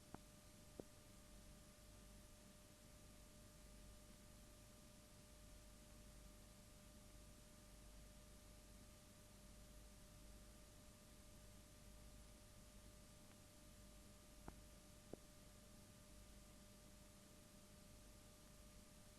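Near silence: a steady recording hiss with a faint steady hum-like tone underneath, broken by two pairs of soft clicks, one pair just at the start and another about fourteen seconds in.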